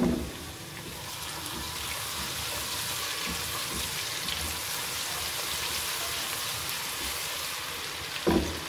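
Sliced onions and garlic paste frying in hot ghee in a deep pot: a steady sizzle as a spatula stirs them through the bubbling fat.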